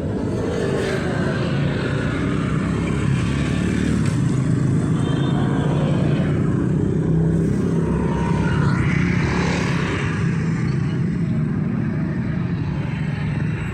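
Steady city road traffic, with motor vehicles passing close by.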